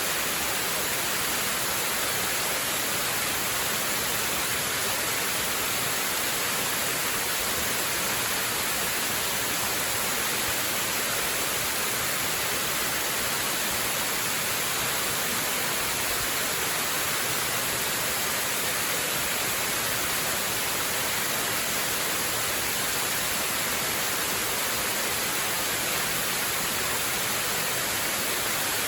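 Waterfall rushing steadily: a continuous, unchanging hiss of falling water, strongest in the high register.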